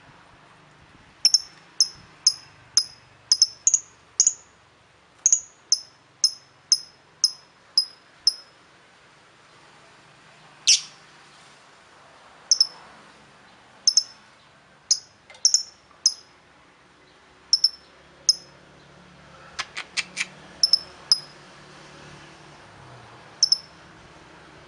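A small bird giving short, high chirps over and over in irregular runs, about two a second at their quickest, with one louder call about eleven seconds in. A quick run of faint clicks comes around twenty seconds in.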